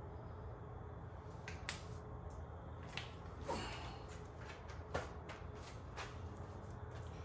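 A handful of sharp clicks and light taps, scattered irregularly, over a steady low hum: small tools or parts being handled.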